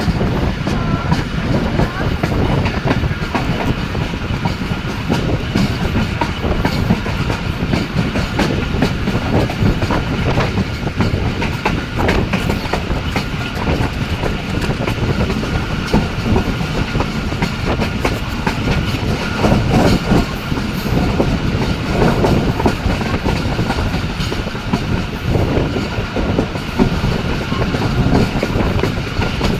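Express passenger train running along the track at speed: a continuous rumble of wheels on rail, with the clickety-clack of rail joints.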